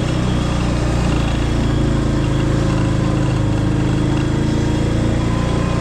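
Small vehicle engine running steadily at low speed while being driven slowly through mud, with no revving.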